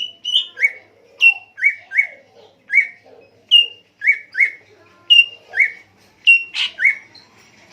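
A songbird whistling a loud repeated phrase: a sharp high note followed by one or two lower, down-slurred notes, repeated over and over, stopping shortly before the end.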